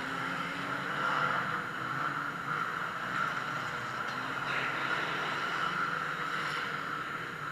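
Engines of several oval-racing cars running hard as the pack laps the track, their notes rising and falling.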